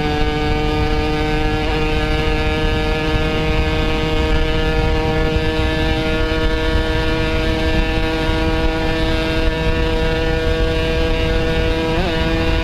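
Yamaha RX-King's single-cylinder two-stroke engine running at a steady cruising pitch through a Boban C33 aftermarket exhaust, with a low rumble of wind noise under it. Near the end the pitch wobbles briefly as the throttle changes.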